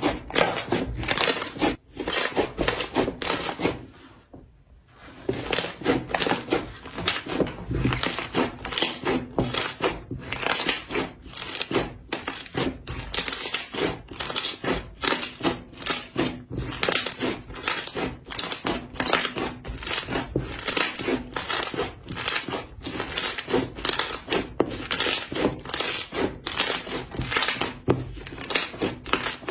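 Slime being squeezed and pressed by hand, giving a dense run of crackling clicks and pops, with a brief pause about four seconds in.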